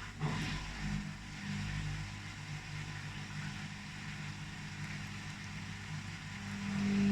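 Arctic washing machine's drum motor turning the drum loaded with a wet blanket: a steady low motor hum. It gets louder with a rising whine near the end as the drum starts speeding up toward its final spin.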